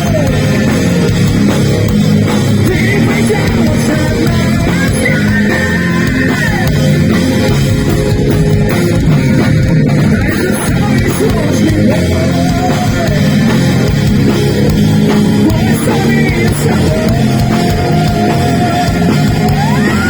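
Live heavy metal band playing loudly, with a melodic lead line that slides between notes and holds them over a dense, steady band sound.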